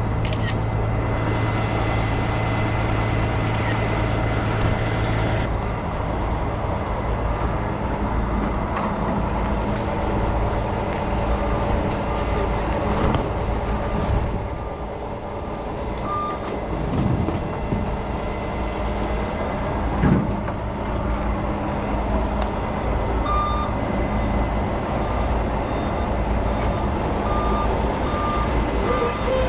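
Heavy truck engine running steadily, with a back-up alarm beeping in short evenly spaced pips from about halfway through.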